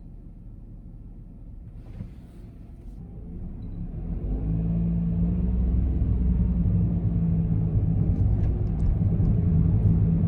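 Honda N-BOX's S07A three-cylinder engine, heard from inside the cabin: a quiet low idle, a light click about two seconds in, then the sound grows over a second or so as the car pulls away and runs on steadily.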